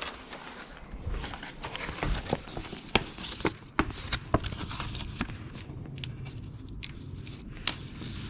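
Hands working with small parts and tools: an irregular run of sharp clicks and knocks over rustling, busiest in the first half and thinning out later.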